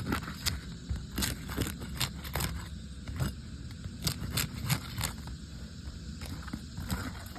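Irregular crackling clicks and scrapes on asphalt roof shingles, a dozen or so sharp ticks coming unevenly, most of them in the first five seconds.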